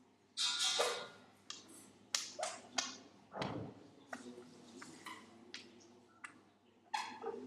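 Fake fart noises made with the back of the knee: a string of short, sharp pops, the longest about half a second in.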